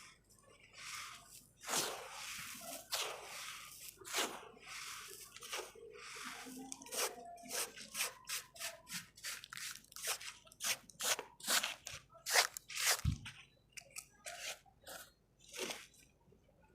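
Dry red sand-cement crumbling, a run of irregular crisp crunches and crackles, with one duller low thump about thirteen seconds in.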